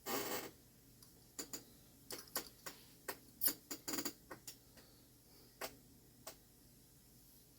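Mantel clock parts being handled: a brief rustle, then a run of small, unevenly spaced clicks and taps.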